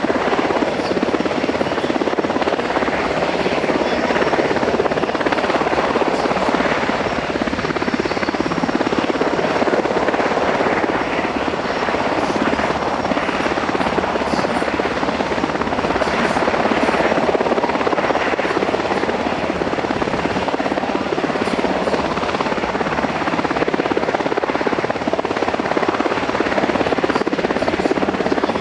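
US Coast Guard MH-60T Jayhawk helicopter running steadily nearby: loud, continuous rotor and twin-turboshaft engine noise.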